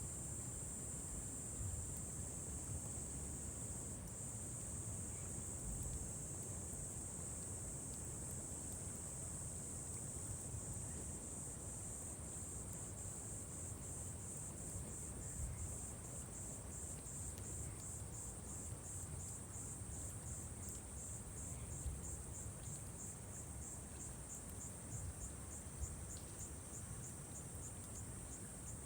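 Insects calling on a summer evening: a steady high-pitched trill that, about halfway through, breaks into rapid even pulses of about three a second. A low, steady rumble lies beneath.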